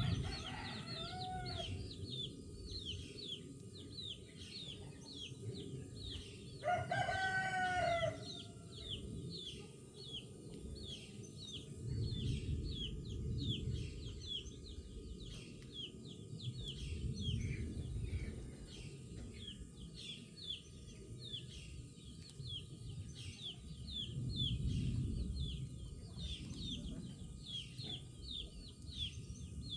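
A rooster crowing twice, faintly right at the start and loudly for about a second and a half around seven seconds in. A rapid high chirping repeats several times a second throughout, over a low rumble that swells and fades a few times.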